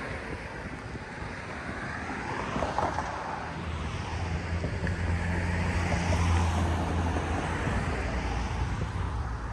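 A car driving slowly past on the street: tyre and road noise with a low engine drone that swells about midway through and then eases off.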